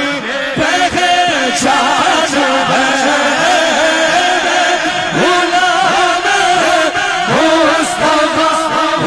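Devotional Urdu naat singing: a voice drawing out long, wavering melismatic notes between the lines of verse.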